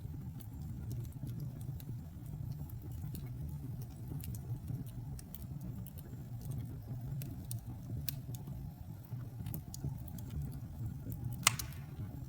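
Wood fire crackling in a fireplace: a steady low rumble of burning with scattered sharp crackles and one loud pop near the end.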